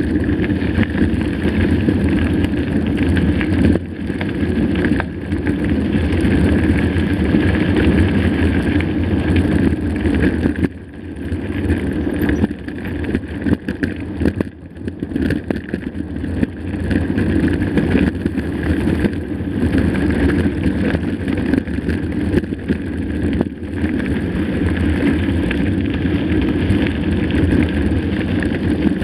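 Mountain bike being ridden over a rough dirt trail: continuous wind rumble on the microphone mixed with tyre noise and the clatter of the bike over stones. The noise eases briefly about eleven seconds in and again around fourteen seconds.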